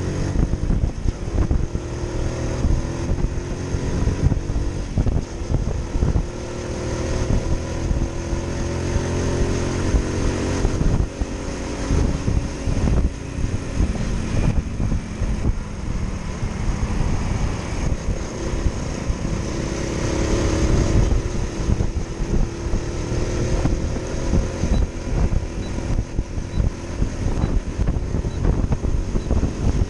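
Motorcycle engine running while riding, its pitch slowly rising and falling with the throttle.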